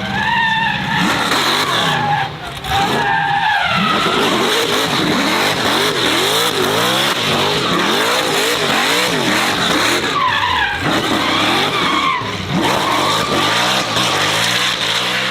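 A performance car drifting: tyres squeal continuously while the engine revs rise and fall about twice a second as the throttle is blipped.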